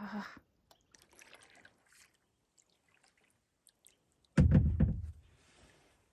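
Water dripping and trickling beside a kayak. About four and a half seconds in there is a sudden loud splash with a deep thump, fading over about a second.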